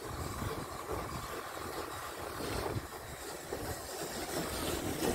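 Vintage Great Western Railway passenger coaches rolling slowly past along the track, their wheels giving a steady low rumble with irregular knocks.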